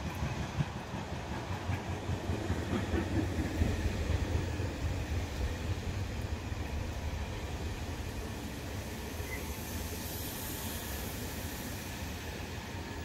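A Västtågen regional electric multiple unit running through the station: a low rumble of wheels on rails, loudest a few seconds in, then easing as the train moves past. A high hiss joins about ten seconds in.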